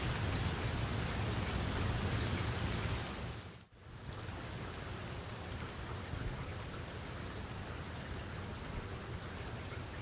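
Steady rain falling, an even hiss of raindrops. About three and a half seconds in it fades out briefly and comes back, a little quieter and with less low rumble.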